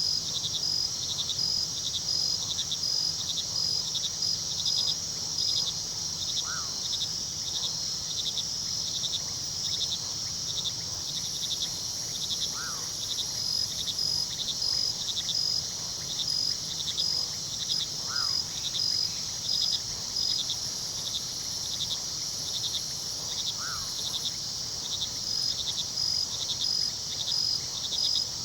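Night chorus of crickets chirping steadily and densely in fast pulsing trills, with a short call repeating about every six seconds and a faint low rush of river water beneath.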